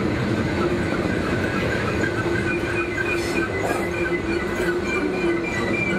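A train rolling past on the rails: a steady, loud rumble of wheels with thin high ringing tones that come and go.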